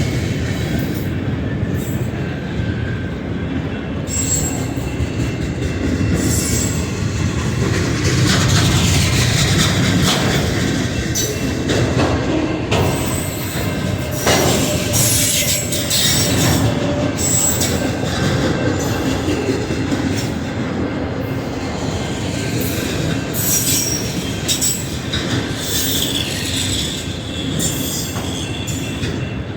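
Cars of a long Union Pacific manifest freight train rolling past: a continuous rumble of wheels on rail with scattered clanks and brief high-pitched wheel squeals.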